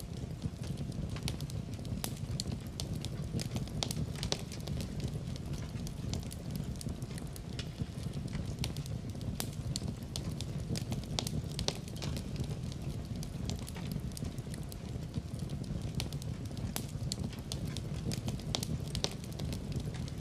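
Wood fire in a fireplace crackling: irregular sharp snaps and crackles over a steady low rumble of the burning fire.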